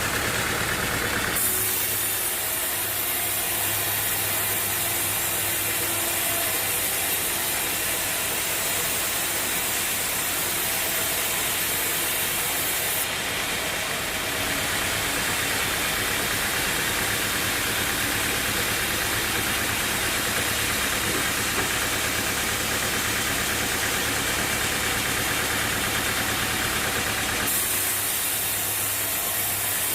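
Bandsaw sawmill running steadily, its engine hum under a loud hiss from the blade. The sound switches abruptly about a second in, when the hiss comes up and the low hum drops, and switches back near the end.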